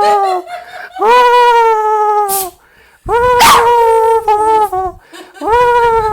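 Jack Russell terrier "talking": long, drawn-out howling whines, three in a row after the tail of an earlier one. Each lasts about a second and a half and sags slightly in pitch at the end.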